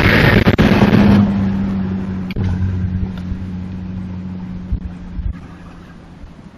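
A truck passing close by on a logging road: loud tyre and engine noise for about the first second, then a steady engine hum that fades gradually as it drives away.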